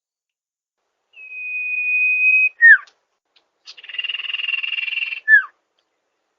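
Sirtu bird song: one long steady high whistle, a quick down-slurred note, a buzzy rattling trill of about a second and a half, then another quick down-slurred note.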